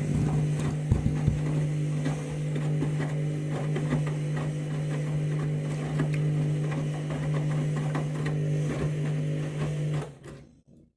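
Candy washing machine running mid-wash: a steady motor hum with light knocks and clicks from the drum and laundry, stopping abruptly near the end.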